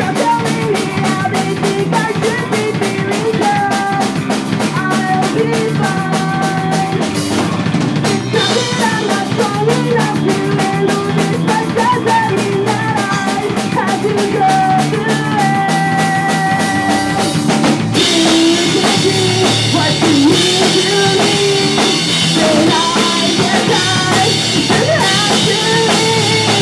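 Live pop punk band playing: distorted electric guitars, bass and a drum kit with steady beats, and sung vocals. The cymbals get brighter and louder about two-thirds of the way in.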